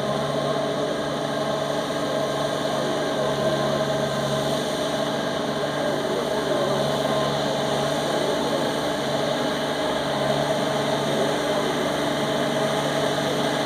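Shibaura 33 hp tractor's diesel engine running steadily at constant speed while working as it puddles a flooded rice field.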